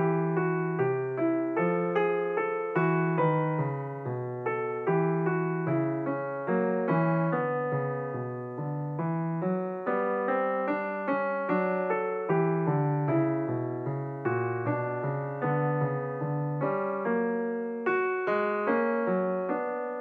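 Background piano music: a gentle melody of single struck notes at a steady pace of about two a second, each note fading before the next.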